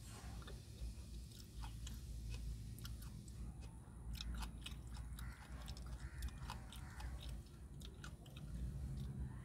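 A person chewing and eating food close to the microphone, with many small, sharp mouth clicks scattered through it over a low steady hum.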